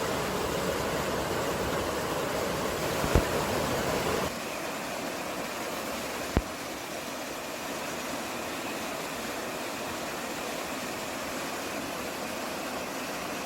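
Steady rushing outdoor noise of wind and running water recorded in the mountains. About four seconds in it drops abruptly to a quieter, thinner hiss without the deep rumble, and there are two sharp clicks, about three and six seconds in.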